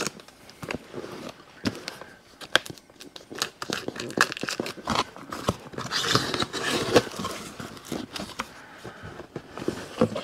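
Cardboard shipping box being opened by hand: flaps rustling and crinkling, with many scattered clicks and knocks as a smaller boxed item is lifted out near the end.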